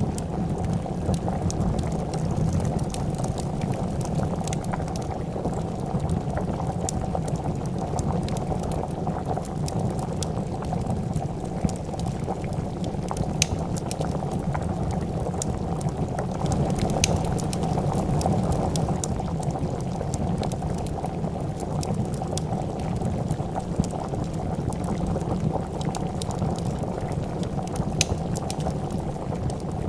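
A pot of soup boiling at a steady, dense bubble, with scattered sharp crackles and pops from a wood fire.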